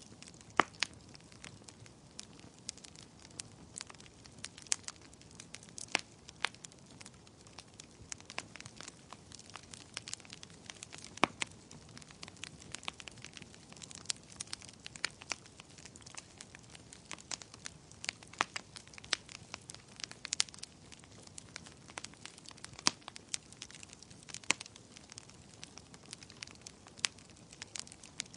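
Wood fire crackling, with a steady stream of irregular sharp pops and snaps over a soft low hiss.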